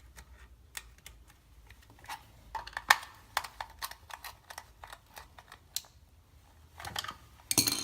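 Irregular small clicks and taps from hands working the wiring and plastic housing of an LED lighting transformer, with a louder clatter near the end.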